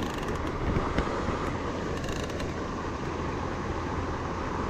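Steady rushing water from a river spillway, with a few faint ticks over it in the first half.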